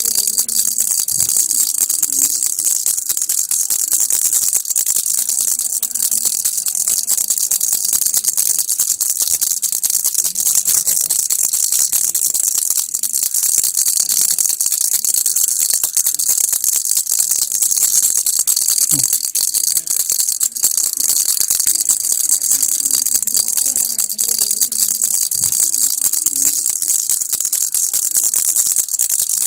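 Baby rattle (kilukki) shaken continuously, its beads making a fast, steady, unbroken rattle.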